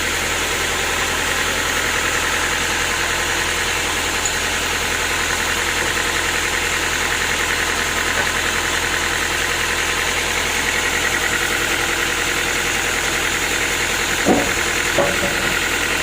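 Sawmill machinery running steadily, with two short knocks near the end.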